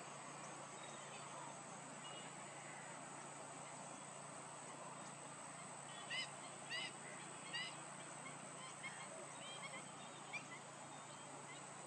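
A bird honking: three short, loud, goose-like calls about six seconds in, then several fainter ones, over a steady background hiss.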